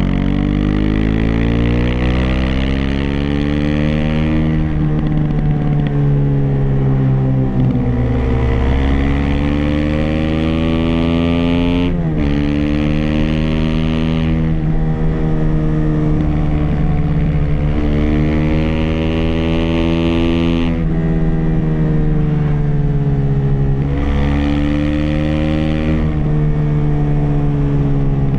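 Aprilia SX 125's single-cylinder four-stroke engine through an Arrow racing header and Thunder slip-on exhaust with dB-killer, heard under way: the pitch climbs under throttle, eases off and drops, and jumps at several gear changes. It sounds slightly muffled, picked up from inside the rider's backpack.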